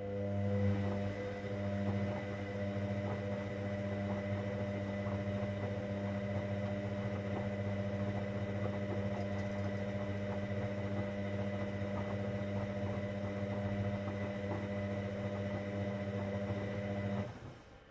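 Hoover Dynamic Next washing machine humming steadily as a part of its cycle runs, with faint scattered ticks over the hum. It starts at once and cuts off abruptly near the end.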